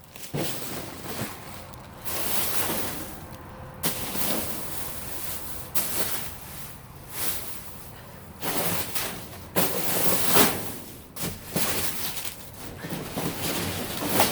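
Plastic garbage bag rustling and crinkling in irregular bursts as it is pulled out and rummaged through.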